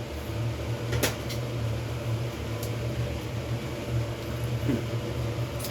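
Steady low electric hum of a fan-driven appliance, with a single sharp click about a second in.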